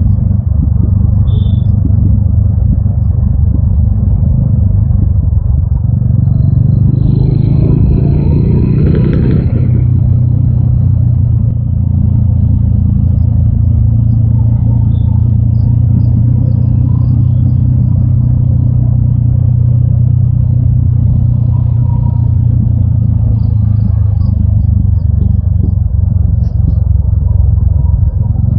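TVS Apache RTR 200 4V's single-cylinder engine running under way, heard from the rider's position. It revs up about six seconds in and settles back near ten seconds, with a brief high-pitched tone sounding during the rev.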